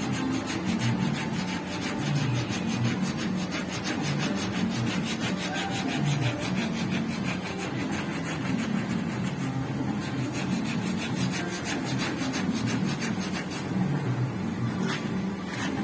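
Sandpaper on a hand sanding block rubbing over car bodywork in steady back-and-forth strokes: a continuous rasping scrape.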